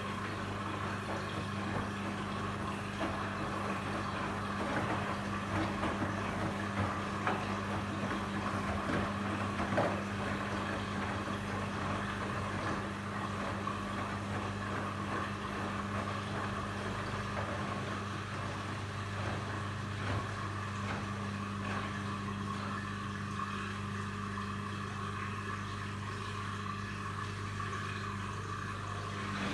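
Candy washing machine running, with a steady low hum and an even whir that holds level throughout.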